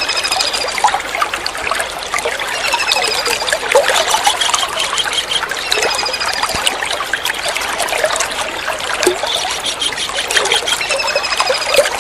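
Kingfisher (tengkek udang) calling a short run of rapid high notes, repeated about every three seconds, over steady trickling water.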